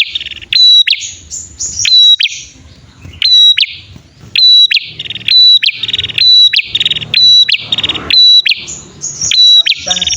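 Prenjak (prinia) pair calling, male and female, in an excited back-and-forth: loud, rapid, sharp chip notes mixed with buzzy rattling trills, used as a lure call.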